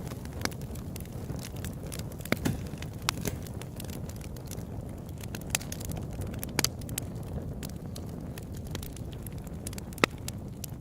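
Open-air wood campfire burning: a steady low rumble of the flames with irregular sharp crackles and pops, a few louder snaps among them, one of the loudest near the end.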